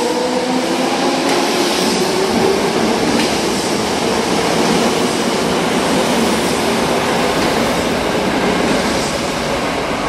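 Toei 5300-series electric train accelerating out of the station past the platform. Its GTO-VVVF inverter whine rises in pitch, fading about a second in under the steady rush of wheels on rails as the cars go by.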